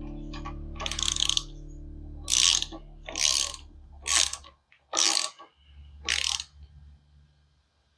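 Hand ratchet wrench being worked in strokes: six short runs of ratchet clicking about a second apart, over a faint steady hum that fades away.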